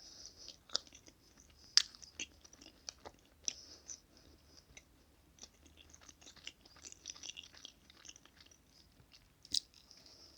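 Close-miked chewing of soft chocolate cake: wet mouth smacks and small sticky clicks, with a few sharper clicks, the loudest about two seconds in and another near the end.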